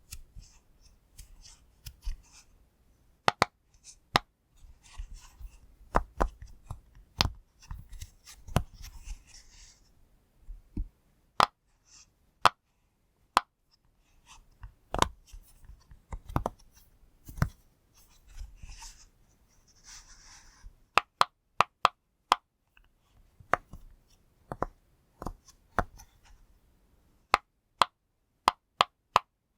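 Push-pop fidget toy being pressed: a string of sharp pops at an uneven pace, some in quick runs of two or three, with soft handling rustle between them.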